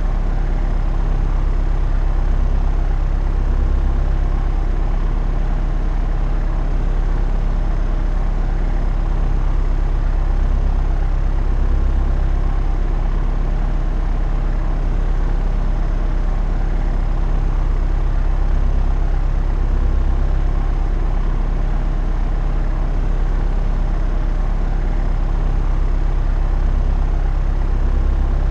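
Propeller aircraft in flight heard from inside, its engine and propeller making a steady, even drone with a deep hum beneath a rushing noise.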